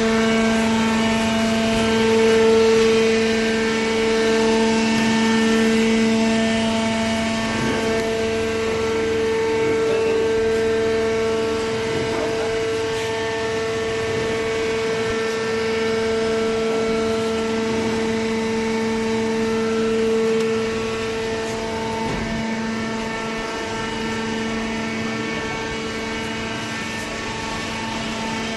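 Hydraulic carton box baler's motor-driven pump running with a steady, even hum, joined by a few faint knocks partway through.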